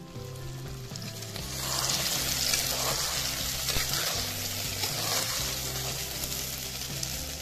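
Mutton curry sizzling in a handi over a wood fire as a metal spatula stirs it; the sizzle swells loud about a second and a half in and keeps going. Background music plays throughout.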